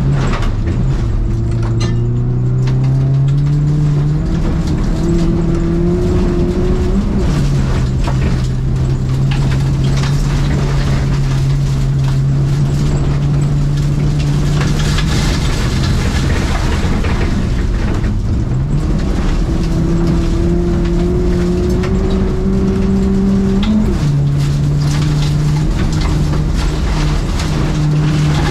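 Renault Clio 1.4's four-cylinder petrol engine driven hard, heard from inside the cabin. The revs climb, drop sharply at gear changes about seven seconds in and near the end, and hold steady for about ten seconds in the middle. Underneath runs a constant rumble of tyres and loose dirt from the track.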